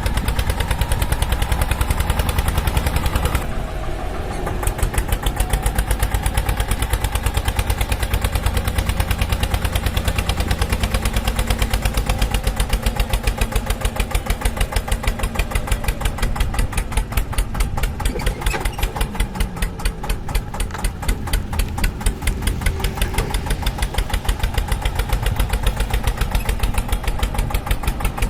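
Tractor engine chugging at a steady idle, a rapid, even run of beats. It dips briefly about four seconds in, then carries on unchanged.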